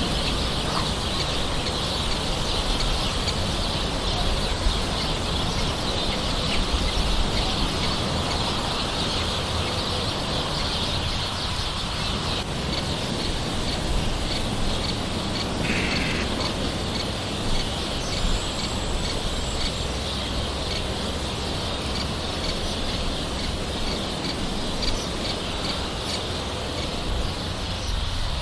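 Light rain falling steadily, with birds calling now and then over it.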